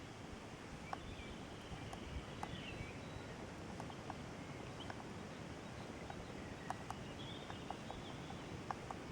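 Wind buffeting a compact camera's built-in microphone as a steady low rumble, with scattered small clicks. Faint bird chirps come through about a second in and again near the end.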